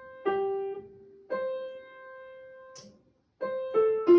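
Piano playing single notes that ring and fade, then a quick run of descending notes starting about three and a half seconds in, setting out the pitch pattern for a vocal warm-up exercise.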